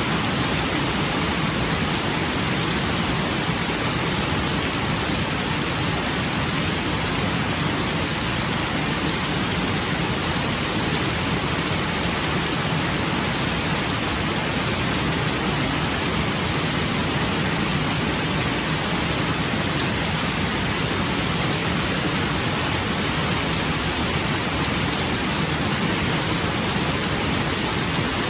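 Steady rain: an even, unbroken hiss that neither swells nor fades, with no drips or thunder standing out.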